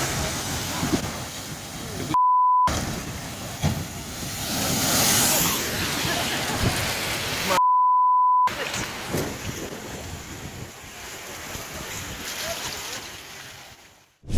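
Two steady pure-tone censor bleeps, a short one about two seconds in and a longer one near eight seconds, over rough wind and water noise. The noise fades out just before the end.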